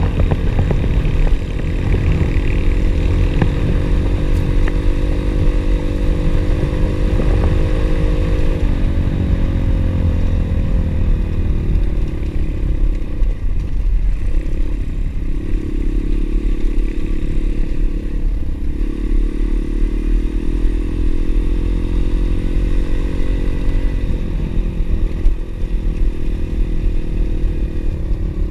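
Pit bike engine running while riding: steady at first, then the pitch drops about a third of the way in and rises and falls a few times with the throttle, over a constant low rumble.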